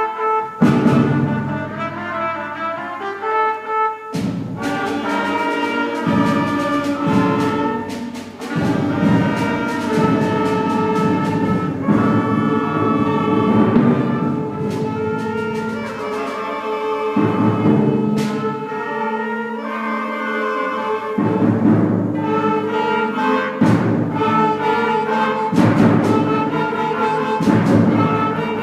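Middle-school concert band playing: sustained wind and brass chords punctuated by repeated timpani and percussion hits.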